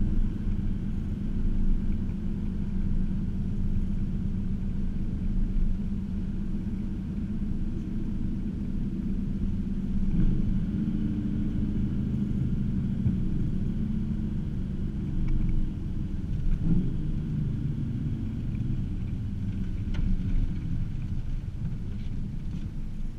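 Supercharged V8 of a 2009 Cadillac CTS-V, with catless long-tube headers and X-pipe into the stock mufflers, heard from inside the cabin while driving. It is a steady low exhaust drone, with brief changes in pitch about ten seconds in and again about seventeen seconds in.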